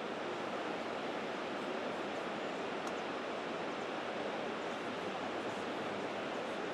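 Steady, even rushing background noise with no distinct calls or knocks in it.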